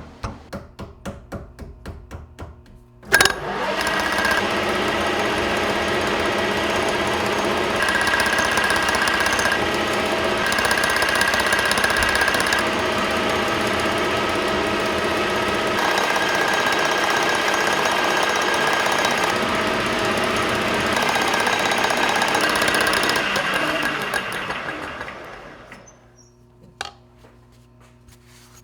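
Metal lathe turning a part: a few seconds of light ticks, a sharp clack, then the lathe runs steadily for about twenty seconds before winding down near the end.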